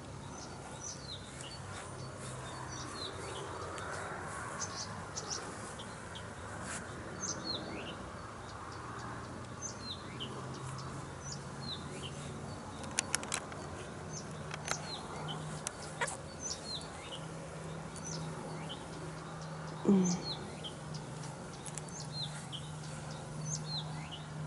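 Small birds chirping with many short, high, falling calls scattered throughout, over a steady low hum. A few sharp clicks come around the middle and a brief louder low sound near the end.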